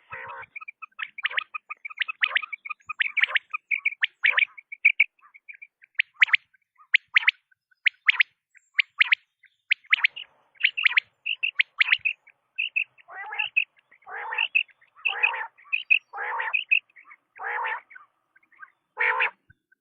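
Quail calling: a run of short, sharp chirps repeated quickly. In the second half, longer and rougher calls come about once a second.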